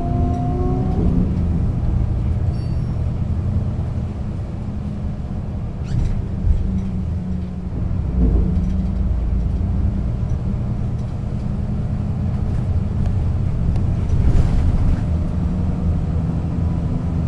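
Setra S 315 UL bus's diesel engine and drivetrain running under way, a steady low drone, with a rising whine in the first second and a couple of short knocks about 6 and 8 seconds in.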